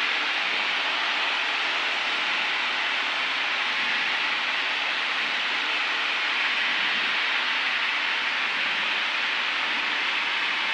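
Steady cabin noise of a Beechcraft Duchess twin on final approach: a constant drone from its two four-cylinder Lycoming engines and propellers under a broad airflow hiss, at an unchanging level.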